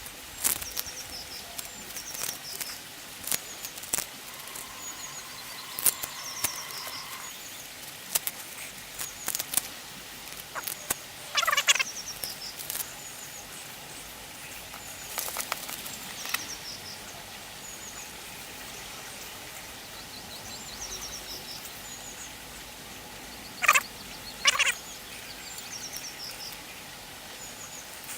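Crackling, clicking and short squeaky rasps of masking tape and cling film being peeled off freshly painted quivertips, loudest about twelve seconds in and twice near the end. Small birds chirp in the background.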